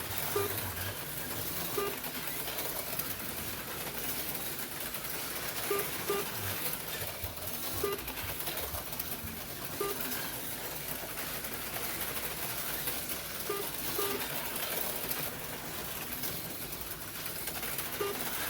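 HO-scale slot cars running on the track, a steady whir, with short beeps at irregular intervals, typical of a lap counter registering cars crossing the line.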